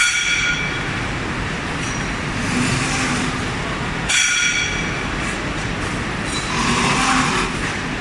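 Steady industrial noise of a factory floor: machinery running with a continuous hiss. High whining tones set in sharply twice and fade away.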